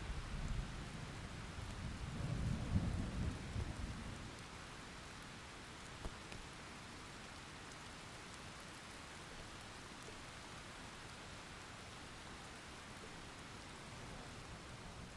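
Thunder rumbling low for the first few seconds, loudest about three seconds in, over steady rain. The rumble dies away and the rain runs on as an even hiss.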